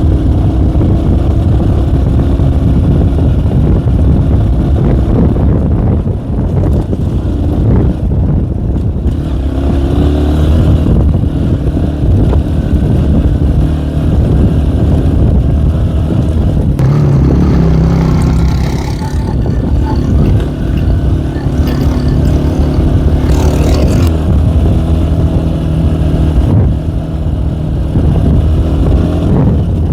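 Tomos ATX two-stroke enduro moped's engine running under way, its note rising and falling as the rider works the throttle on the climb.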